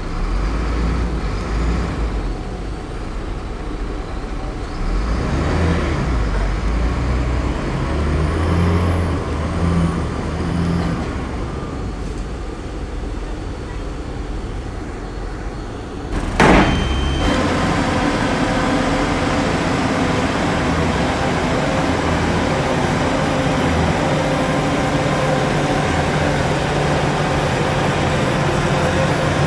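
Heavy diesel earthmoving machinery (bulldozer and dump truck engines) running, a low uneven rumble at first. About two-thirds of the way through there is a short, sharp burst, and after it the engine drone is louder and steadier.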